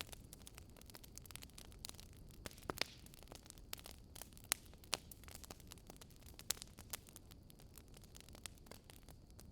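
Faint wood fire crackling, with irregular sharp pops and snaps over a low steady rush; a few louder pops stand out in the middle.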